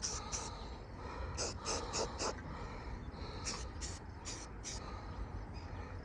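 Paint being dabbed onto a car's body in quick, short scrubbing strokes, in bursts of two to four, over a low outdoor rumble.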